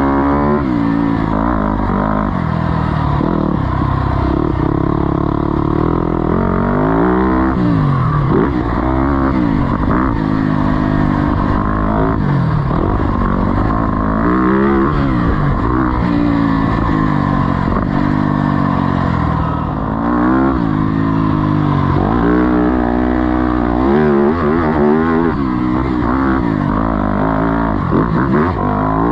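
Yamaha four-stroke motocross engines, a YFZ450R quad and a YZ-series dirt bike, revving hard and easing off again and again, the pitch climbing and falling every second or two as they ride the track.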